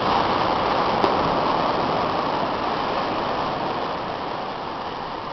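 Steady rushing wash of surf on a beach, slowly fading a little toward the end, with a faint click about a second in.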